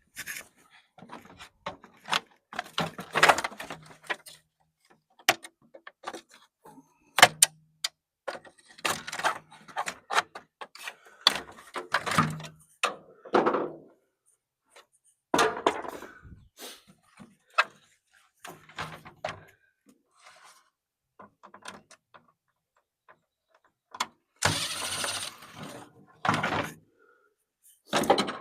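Pry bar working on an electric clothes dryer's sheet-metal cabinet: irregular metallic clanks, knocks and scrapes, with a longer rasping scrape near the end.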